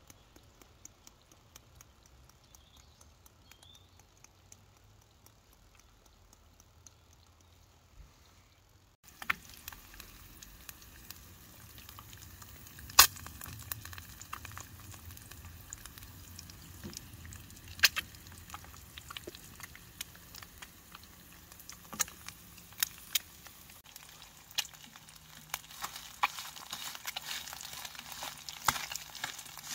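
Food sizzling in a pan on a small wood-burning tent stove, with crackles and several sharp pops from the fire. The first several seconds hold only faint ticking; the sizzling starts abruptly about nine seconds in.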